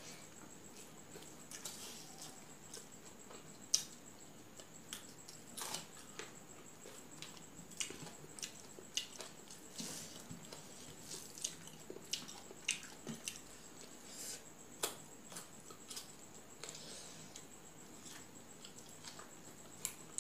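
Close-up eating sounds: soft, irregular wet clicks and smacks of a mouth chewing rice and fish curry eaten by hand, a few of them sharper than the rest.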